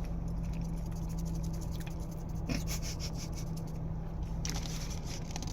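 Close-up chewing of a soft cookie: wet mouth clicks and smacks coming in two short runs, over a steady low hum.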